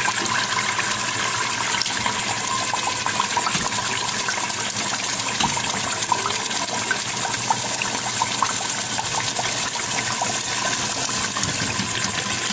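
Onion, tomato and spice masala sizzling in hot oil as raw beef pieces are fried in it, a steady hiss with small scattered crackles, with a wooden spatula stirring. This is the bhuna stage, the meat being browned in the masala.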